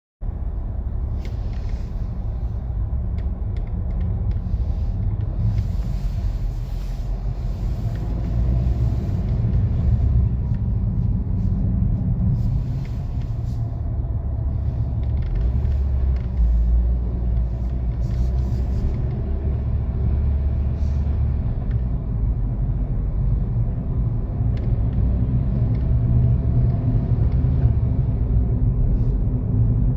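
Car running: a steady low rumble of engine and road, with a few brief, faint higher noises now and then.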